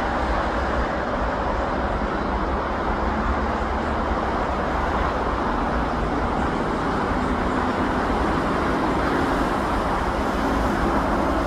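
Steady, continuous road-traffic noise with no distinct events.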